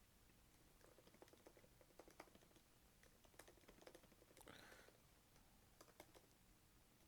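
Faint typing on a computer keyboard: a run of quick key clicks starting about a second in, with a brief soft noise partway through.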